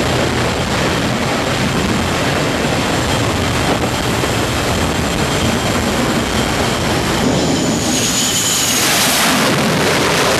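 F/A-18 jet engines running loud on an aircraft carrier's flight deck, a steady rush of noise that grows louder and brighter about eight seconds in, with a faint high whine.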